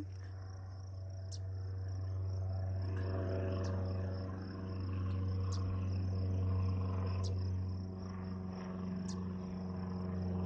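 Airplane flying overhead: a steady low engine drone with several held tones that swells and eases slightly. A faint high steady tone runs above it, with a short tick about every two seconds.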